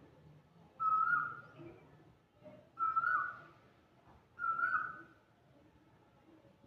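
Asian koel calling: three loud whistled notes about two seconds apart, each held briefly and dipping slightly in pitch at its end.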